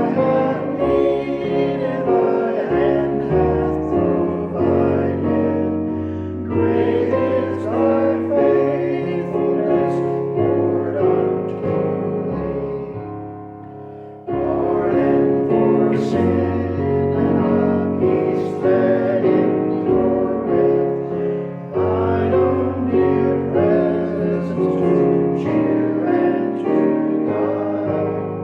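Piano music in slow, held chords. About halfway through it fades down, then starts again at full level.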